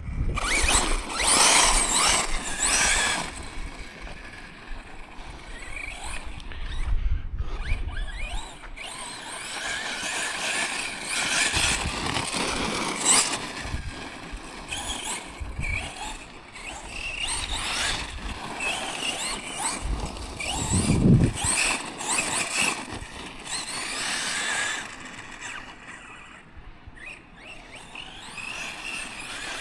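Tekno MT410 2.0 electric 1/10 monster truck being driven in bursts: its motor and drivetrain whine rises and falls with the throttle, with a louder burst about two-thirds of the way through.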